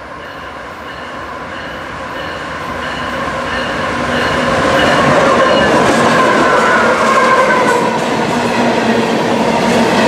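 Diesel freight train passing close by: the locomotive grows louder over the first half as it comes up and goes past, then the cars roll by with wheels clicking over the rail joints.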